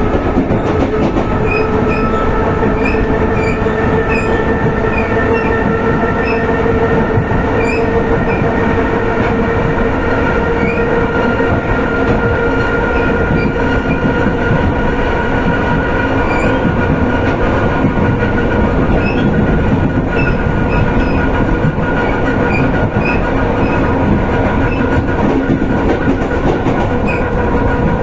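Electric suburban train (elektrichka) running at speed, heard from inside the carriage: a steady rumble of wheels on rail with a sustained humming tone and faint repeated clicks.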